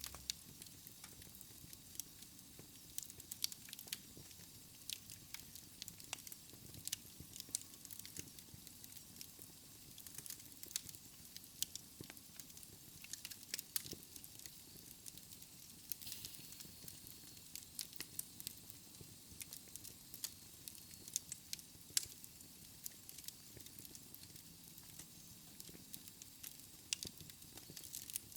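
Wood fire crackling in a fireplace: irregular sharp pops and snaps over a faint low hiss of the flames.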